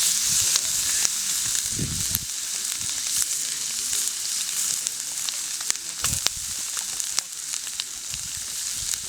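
Food sizzling and frying in a pan over a campfire: a steady high hiss with scattered sharp pops.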